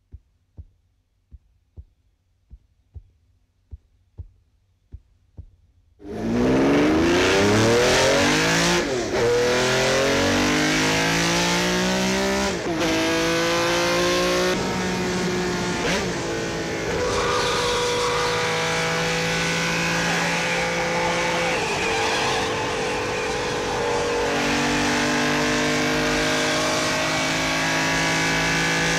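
A run of about ten soft ticks, roughly two a second. Then, about six seconds in, a car engine bursts in and accelerates hard, its pitch climbing and dropping back at each upshift several times before settling to a steadier, varying run.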